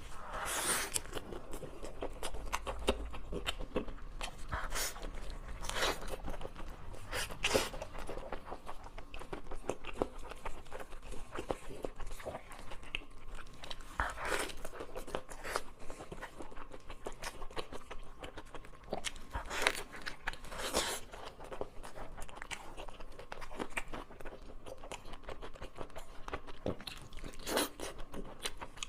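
A person biting and chewing food, with irregular crunches.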